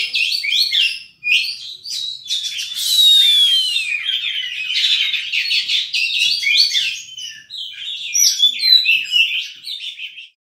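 Oriental magpie-robin singing a fast, varied song of chirps, trills and whistles, full of borrowed phrases, with a long falling whistle about three seconds in. The song breaks off just before the end.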